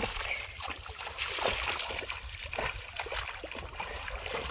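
Shallow muddy field water sloshing and splashing irregularly as hands grope through it for fish, over a steady low rumble.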